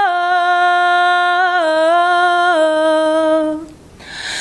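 A woman singing unaccompanied, holding one long note that steps down in pitch a few times and stops about three and a half seconds in. It is followed by a quick breath in near the end.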